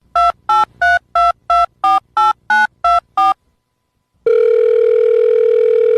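Telephone keypad tones dialing ten digits in quick succession, about three beeps a second, each beep a different pair of tones. About a second later comes a single steady telephone tone lasting about two seconds, then it stops.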